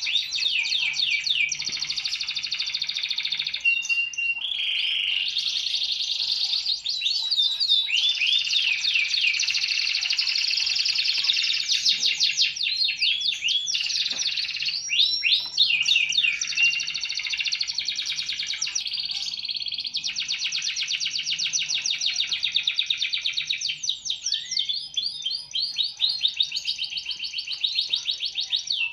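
Domestic canary singing a continuous master song of rapid trills and rolling repeated phrases, switching to a new phrase every second or two.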